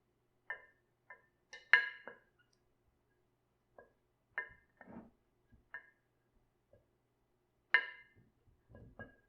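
Scattered sharp clinks and knocks of hard kitchenware being handled, some ringing briefly at a clear pitch. The loudest two come about two seconds and eight seconds in.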